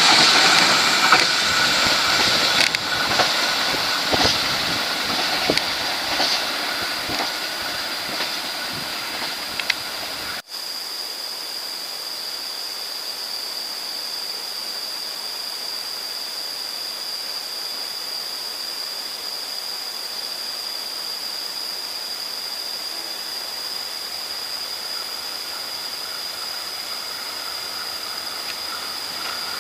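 Passenger train coaches running away along the track: a rushing noise with wheel clicks over the rail joints that fades over about ten seconds, then cuts off. After that there is a steady hiss with a thin high tone, and near the end the faint drone of a diesel locomotive approaching.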